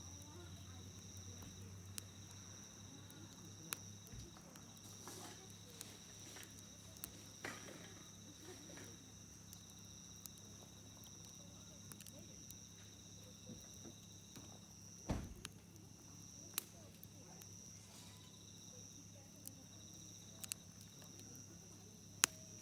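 Wood campfire crackling, with sharp pops every second or two and one louder pop about fifteen seconds in. Steady high insect chirring runs underneath.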